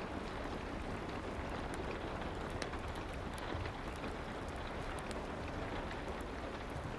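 Steady soft rain with scattered small crackles and ticks over it, a rain-and-fireplace ambience.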